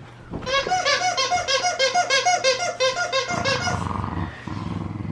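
Squeaky dog toy squeaked over and over by a cocker spaniel puppy chewing it: a rapid, even run of high squeaks, about four a second, for some three seconds, then a lower rough noise near the end.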